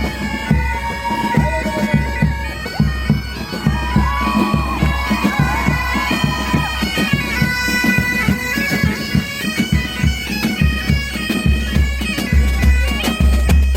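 Pipe band performing: bagpipes play a melody over a steady drone, with drum beats underneath.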